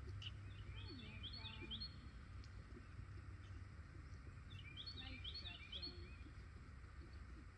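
A songbird singing two short phrases of quickly repeated high notes, about a second in and again around five seconds in, over a low steady outdoor rumble.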